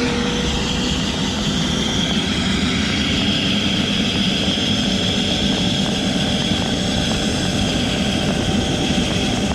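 Helicopter running on the ground before takeoff: a steady high turbine whine over the dense noise of the engine and turning rotor, holding at a constant level.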